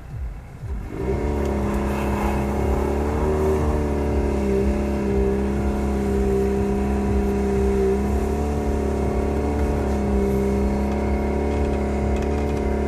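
Jeep Patriot's four-cylinder engine revving up about a second in and then held at high, steady revs under heavy throttle. The SUV barely creeps forward in hard-packed snow.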